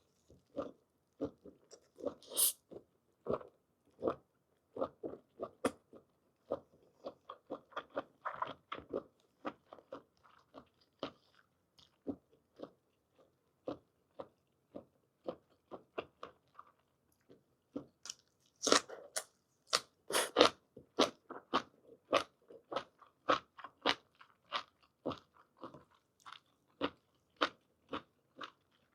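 Close-up mukbang chewing and biting of blanched squid and scallions: a steady run of short mouth clicks, busiest and loudest about two-thirds of the way through.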